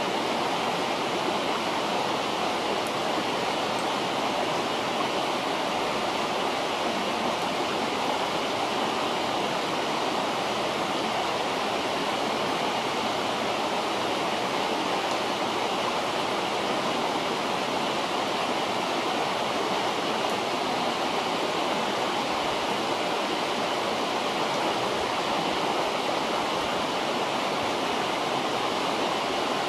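River water rushing steadily, an even unbroken hiss with no change in level.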